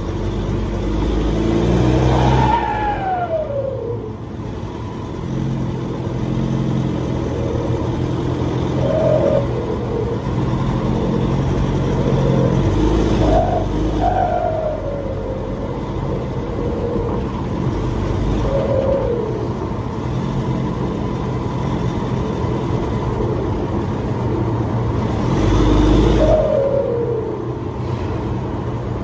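Nissan Navara pickup's turbocharged engine, running with the muffler deleted, accelerating through the gears. The revs climb and drop again about six times, and each time the throttle lifts there is a falling turbo whistle.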